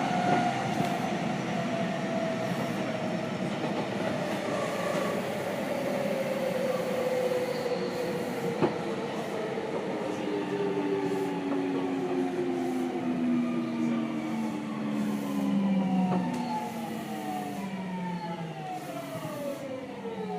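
Seibu 6000 series train's Hitachi GTO VVVF inverter and traction motors whining under braking, the pitch falling steadily as the train slows for a station, with several tones dropping faster near the end. Steady running and rail noise lies beneath.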